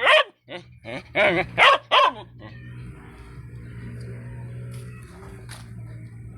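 A dog barks in a quick run of short, high-pitched barks over the first two seconds, then stops, leaving a steady low hum.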